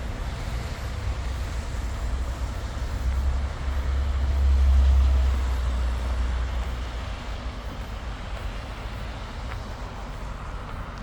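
City street traffic with a low vehicle rumble that swells to its loudest about halfway through, then fades as the vehicle passes.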